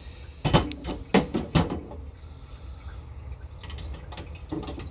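Dishes clinking and knocking as they are set into the rack of a countertop dishwasher: a quick run of sharp knocks in the first two seconds, a few quieter ones later, over a steady low hum.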